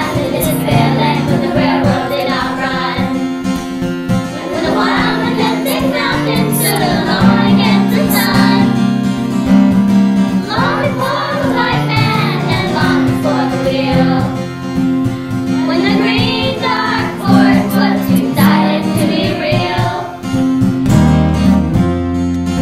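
A children's virtual choir sings in unison over recorded instrumental accompaniment led by strummed acoustic guitar and a steady bass line.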